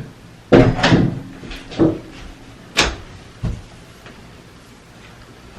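A handful of knocks and clatters like cupboard doors or household things being handled: a quick cluster about half a second in, then single knocks spaced about a second apart, dying away to quiet room sound.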